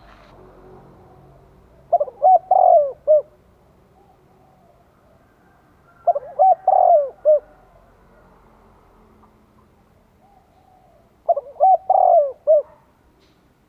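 Spotted dove cooing: three phrases of several short coos each, about four to five seconds apart. It is the male's advertising call, used here as a decoy call to draw in wild doves.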